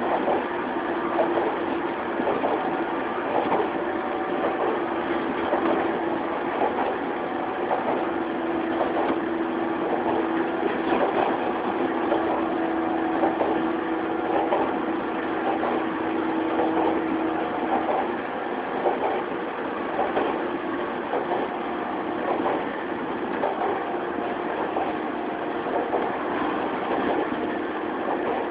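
Inside a JR 115-series electric train's motor car running at speed: a steady motor and gear whine under the rumble of the wheels, with clacks as the wheels cross rail joints. The whine weakens about two-thirds of the way through.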